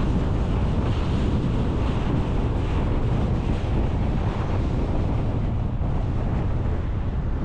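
Steady road and wind noise of a car driving, a constant low rumble with wind buffeting the microphone.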